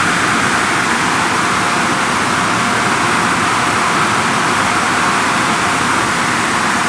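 Car wash equipment running: a loud, steady rushing noise.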